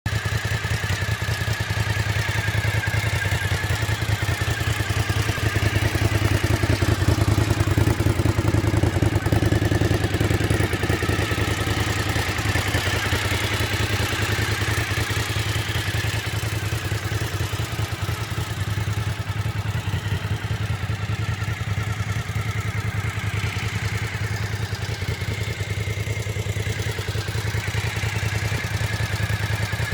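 Suzuki TL1000S's 90-degree V-twin engine idling steadily, a little louder around six to ten seconds in.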